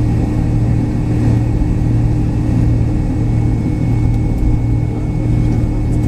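Steady low drone inside the cabin of a McDonnell Douglas MD-83 jet airliner, near its tail, with a faint constant high whine over it.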